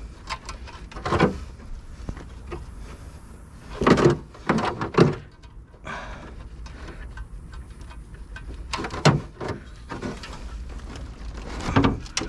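Several separate knocks and scrapes of hands and tools working the copper deflection yoke loose from the neck of a CRT television's picture tube.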